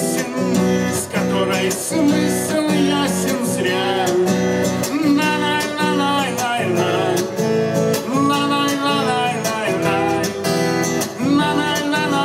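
Acoustic guitar strumming at a steady rhythm in an instrumental passage of a song, with a wavering melody line over it.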